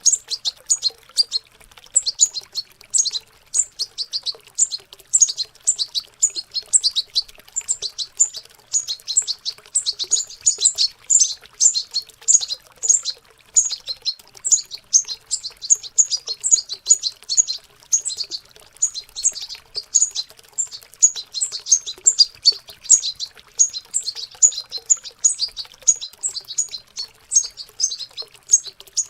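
Young European goldfinches chattering in a continuous stream of rapid, high twittering notes, the babbling subsong of fledglings learning to sing. Faint running water sounds beneath.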